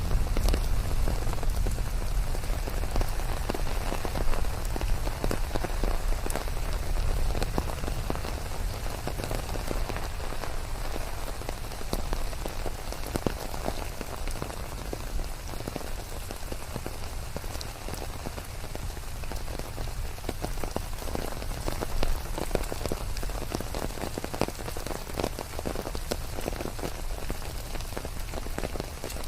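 Steady rain falling, with many separate drops ticking sharply over a continuous hiss and a low rumble underneath.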